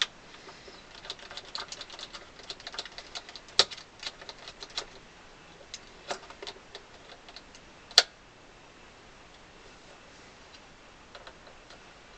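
Clamps being fitted and tightened on the accordion's glued celluloid: a quick run of small clicks and knocks that thins out, with two sharper clicks about three and a half and eight seconds in.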